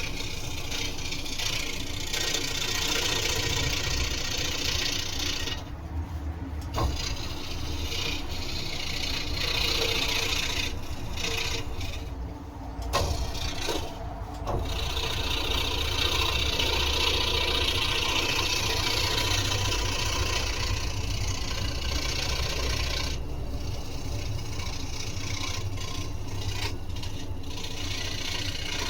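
Electric scroll saw running, its blade cutting through a wooden workpiece over a low motor hum; the cutting sound eases off briefly a few times.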